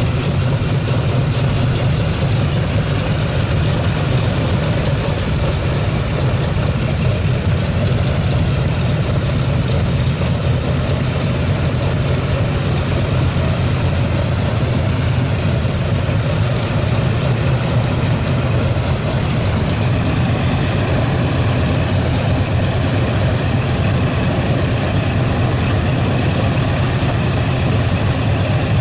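Republic P-47D's Pratt & Whitney R-2800 18-cylinder radial engine running steadily at an even, unchanging pitch.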